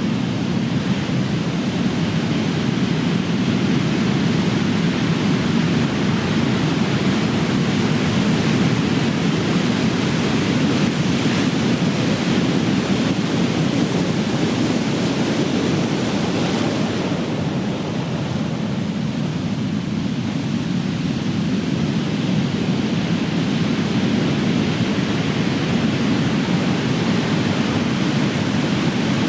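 Ocean surf: big waves breaking and washing in a steady, continuous rush, swelling and easing slightly, with a brief lull a little past halfway.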